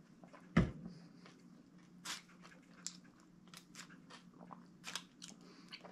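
A bottle set down on the table with a thump about half a second in, then chewing and mouth noises from eating a Subway sub sandwich, heard as scattered short smacks and crunches, over a faint steady hum.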